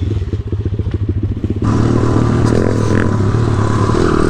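Pit bike's single-cylinder four-stroke engine putting along at low revs over rough ground, then running louder and steadier from about a second and a half in.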